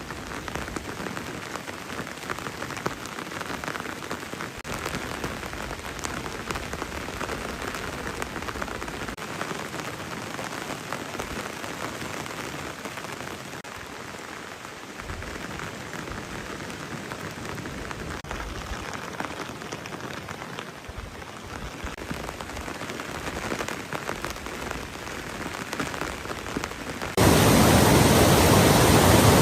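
Steady rain falling, an even hiss with scattered drops. Near the end it cuts suddenly to a much louder, steady rushing noise.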